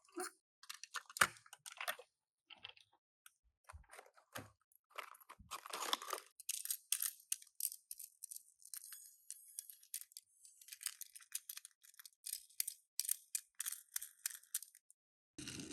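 Tomica die-cast minicars being unboxed: many small clicks, rustles and crinkles of box packaging being handled, thickest from about six seconds on.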